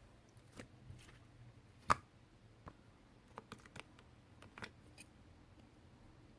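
Scattered light clicks and taps over faint room tone, the sharpest and loudest about two seconds in, with a small cluster of them around the middle.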